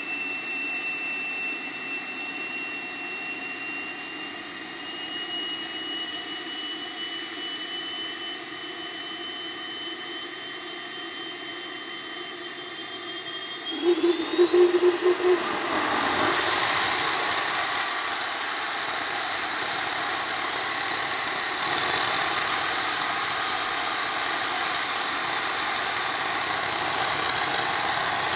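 Small homebuilt gas turbine engine running with a steady high whine. About halfway through it spools up: there is a short burst of loud pulsing, and the whine rises steeply over two or three seconds. It then holds steady at the higher speed, louder than before.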